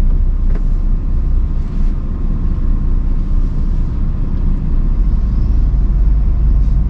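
Steady low rumble of a lorry's diesel engine and road noise, heard from inside the cab.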